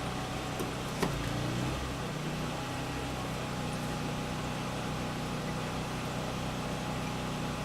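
Champion 1200-watt portable gas generator running steadily under load. About a second in there is a sharp click, and the engine's note shifts briefly as the freezer is plugged in and the extra load comes on.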